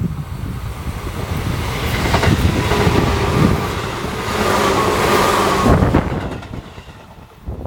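A Tobu Railway electric train running past the depot, its running noise building, peaking and then fading away, with a steady whine among it. Wind buffets the microphone underneath.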